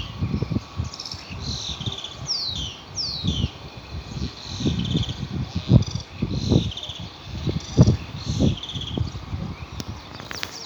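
Small birds chirping and twittering, with several quick falling calls, while gusts of wind buffet the microphone with low rumbles.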